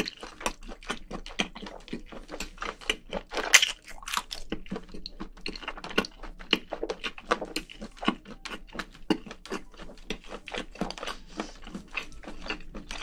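Close-miked chewing of a mouthful of spicy braised seafood (haemul-jjim) with bean sprouts: a dense, uneven run of short crunchy mouth clicks.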